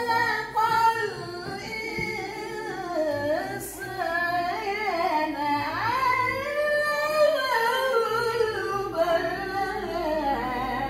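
Melodic religious vocal chanting in a maqam style, long notes sliding up and down without a break.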